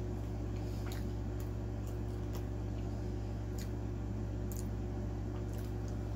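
Close-miked chewing of a sauced boneless chicken wing: scattered soft, wet mouth clicks over a steady low hum.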